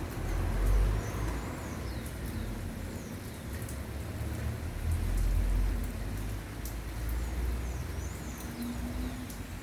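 Light rain falling, with individual drops ticking sharply on surfaces. A bird calls with short high notes that rise and fall, repeated in small runs, over low rumbling swells about a second in and again around the middle.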